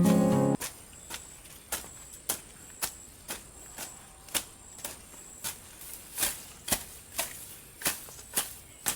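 Guitar music cuts off about half a second in. A hand tool then chops into grass and weeds in short, sharp strikes at a steady pace of about two a second.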